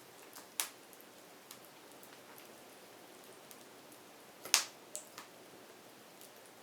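Wood fire crackling: scattered sharp pops and snaps over a faint steady hiss, with one loud pop a little past the middle followed by a few smaller ones.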